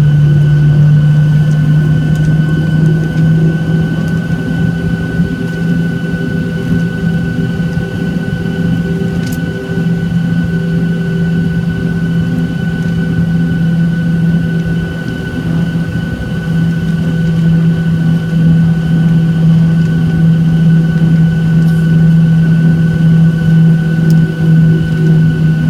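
Steady engine noise heard inside the cabin of a Boeing 737-800 airliner: a loud low drone from its CFM56-7B turbofan engines, with a thin steady whine above it.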